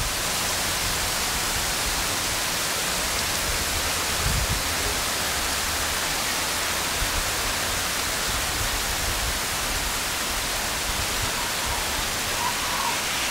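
Heavy rain falling steadily, a dense even hiss, with a brief low thump about four seconds in.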